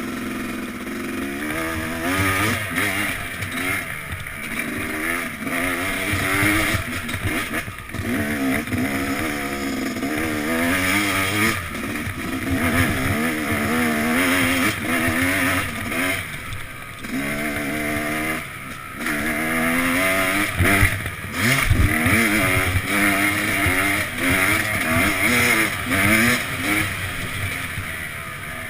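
Yamaha YZ250X 250cc two-stroke dirt bike engine being ridden hard, its pitch climbing in repeated rising bursts with brief drops as the throttle closes between them.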